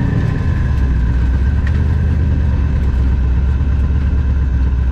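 A twin-turbo street/drag car's engine running at a steady, low speed: a deep, even drone, loud and close.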